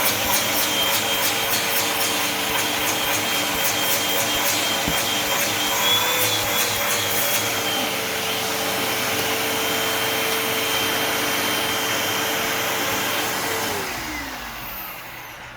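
Hoover WindTunnel Tempo upright vacuum cleaner, fitted with a new belt and bag, running steadily with a motor whine, with scattered clicking over the first half. Near the end it is switched off and the whine falls in pitch as the motor winds down.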